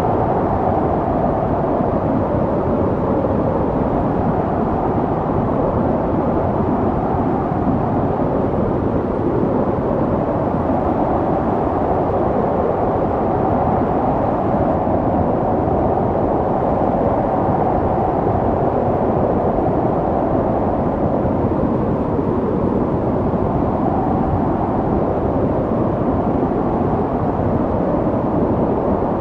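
Snowstorm wind: a steady low rushing noise with a faint howl that slowly rises and falls in pitch.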